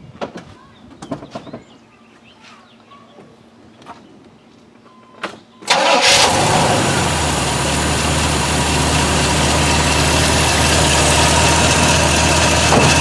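1978 Chevrolet Corvette's original 350 small-block V8 starting: a few faint clicks, then it fires suddenly a little before halfway and settles straight into a steady idle.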